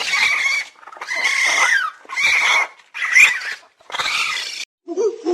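An animal's harsh, screechy calls, about one a second, five in a row. Near the end a different, lower-pitched sound begins.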